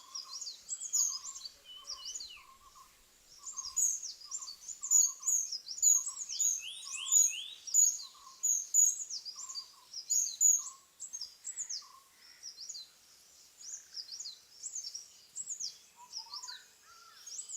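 Several wild birds calling and chirping: a rapid mix of short, high-pitched chirps and down-slurred notes, over a lower, simpler call repeated about twice a second that stops about three quarters of the way through.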